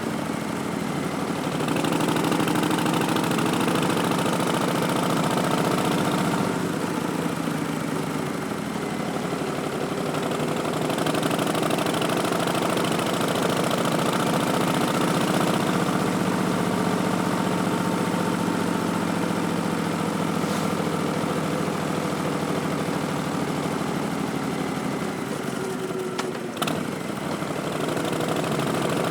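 Harley-Davidson Street Bob's Milwaukee-Eight V-twin running through Vance & Hines Twin Slash slip-on mufflers under way, its pitch drifting up and down with the throttle. The note dips briefly about seven seconds in and again near the end, with a short click in the second dip.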